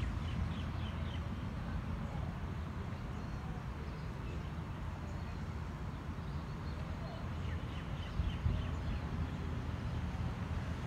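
Outdoor ambience: small birds chirping in short quick runs, once near the start and again about eight seconds in, over a steady low rumble.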